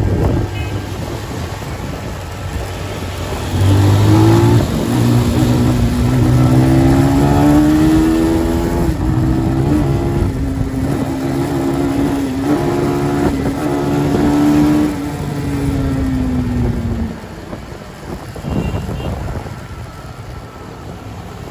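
Motorcycle engine revving hard under acceleration, its pitch climbing and stepping as it shifts through the gears, then falling away after about 17 seconds. A steady rush of wind and road noise runs underneath.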